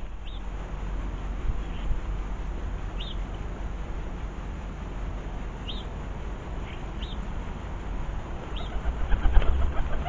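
Short high chirps from a small garden bird, one every second or so, over a steady low rumble. About nine seconds in comes a brief flurry of pigeon wing flaps.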